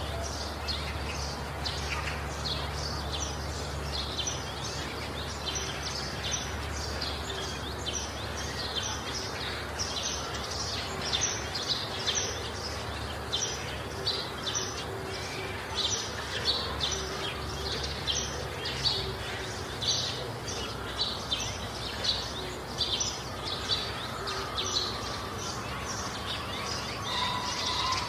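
Many small birds chirping over steady background noise, short high chirps coming several a second and thickening in the second half.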